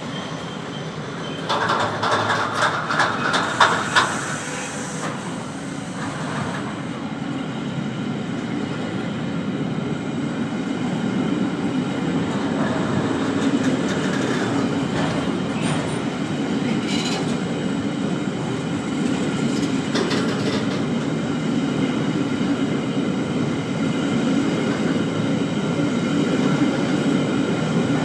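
A train running past on the rails: a steady rumble, with a burst of wheel clatter over rail joints a couple of seconds in, growing slowly louder.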